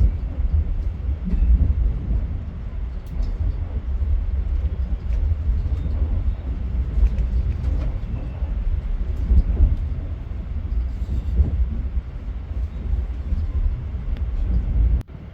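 A train running past with a steady heavy low rumble and a few light clicks. It breaks off abruptly near the end.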